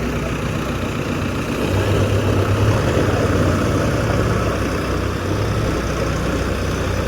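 Swaraj 834 XM tractor's three-cylinder diesel engine running steadily, getting louder from about two seconds in and easing back about five and a half seconds in.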